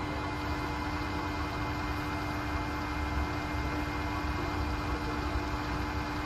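Electric motor of a milling machine running steadily under power, a constant hum with a steady whine over it.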